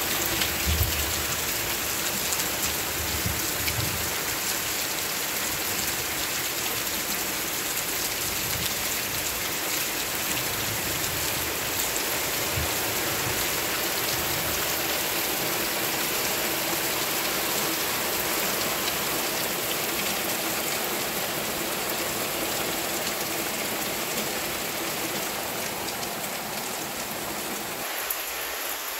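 Heavy summer rain falling steadily on trees, leaves and grass, an even, continuous wash of sound, with a few low thumps in the first few seconds.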